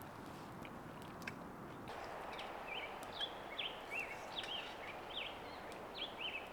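A songbird calling in a run of short, quick chirps, about two a second, starting about two and a half seconds in, over a steady background hiss with a few faint clicks.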